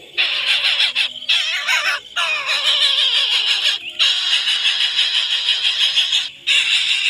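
Birds calling in a dense, shrill run of rapid squawking chatter, broken by brief pauses four times.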